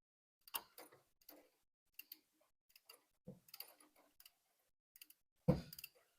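Scattered metal clicks and clinks of hand tools and loosened head bolts as the cylinder head is worked free on a 1959 Apache engine. There is a heavier, deeper thunk about five and a half seconds in.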